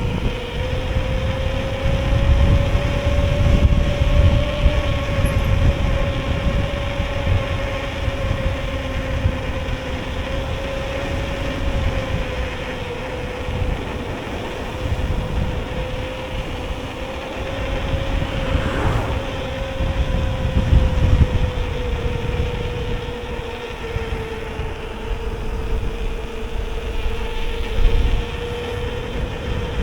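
Whyte electric mountain bike ridden along a tarmac road: a steady hum that drifts slightly in pitch, over a low rumble of wind on the microphone.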